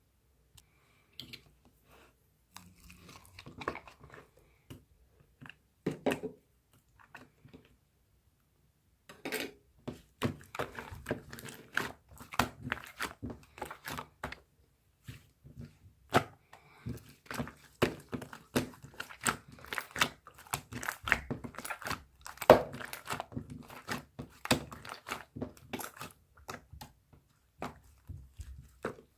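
Slime being squeezed and worked by hand, giving short crackling pops and squishes. They are sparse and soft for the first several seconds, then after a brief pause come thick and steady from about nine seconds in.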